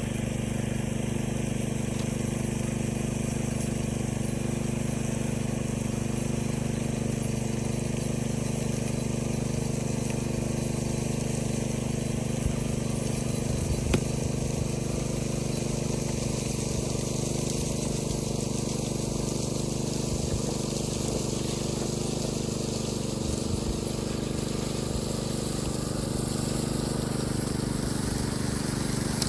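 Gas engine running steadily at constant speed, a continuous even drone, with two short knocks about halfway through.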